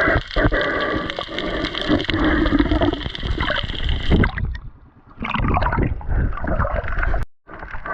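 Water gurgling and churning with bubbles, as heard through a camera underwater. It thins out briefly about four and a half seconds in, and cuts out completely for a moment near the end.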